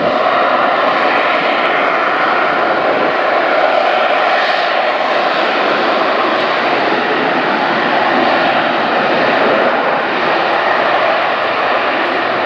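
BAe Sea Harrier FA2 jump jet's Rolls-Royce Pegasus turbofan running at high power: loud, steady jet noise with a rushing hiss, swelling slightly now and then.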